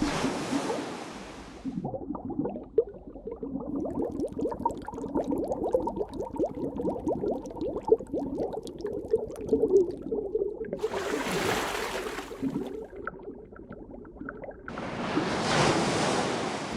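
Underwater bubbling and gurgling, with three spells of rushing hiss like a stream of air bubbles: at the start, about two-thirds of the way in, and near the end.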